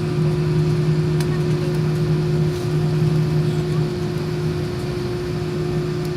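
Steady cabin hum of an Airbus A319-112 shortly before takeoff: engines and air system running with a constant low drone, no change in pitch.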